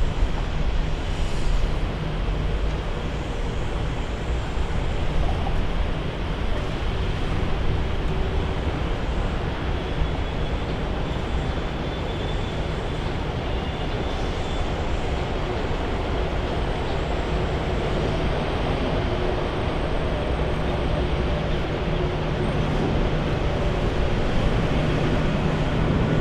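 Jet airliner engine noise: a steady, fairly loud rumble with a low hum, holding level throughout.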